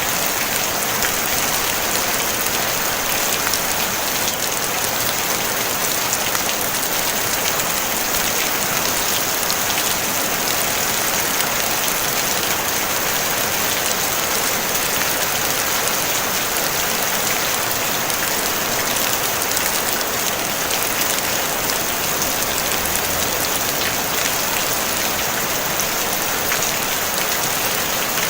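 Steady rain falling on a tin roof: an even, dense hiss of many small drop impacts, with no thunder.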